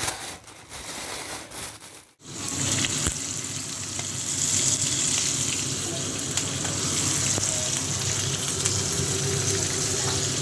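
Calamari deep-frying in hot oil: a steady, dense sizzle with scattered small pops of spattering oil, starting abruptly a couple of seconds in. Before it, a brief stretch of uneven handling noise.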